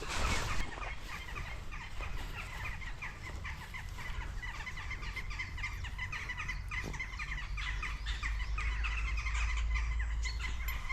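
Birds chattering: a rapid, continuous run of short high calls, over a steady low rumble.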